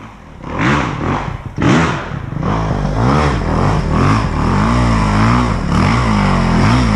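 450cc four-stroke dirt bike engine starting and being revved in repeated throttle blips. After about two seconds it runs on, its pitch rising and falling with the throttle.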